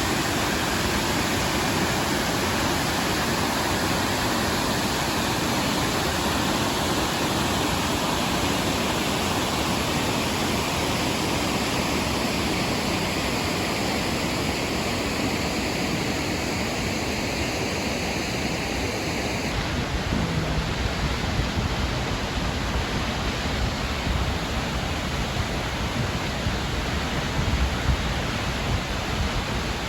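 DeSoto Falls waterfall: a steady rush of falling water. The sound changes abruptly about two-thirds of the way in, with more low rumbling after that.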